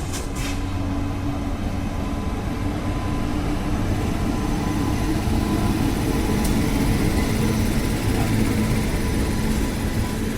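Express train of LHB coaches hauled by a WAP-7 electric locomotive, running as a steady rumble with a low droning hum.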